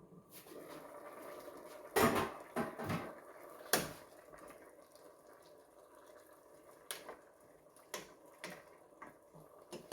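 Kitchen clatter of pots and dishes being handled: a cluster of sharp knocks about two to four seconds in over a steady hiss, then a few lighter separate knocks.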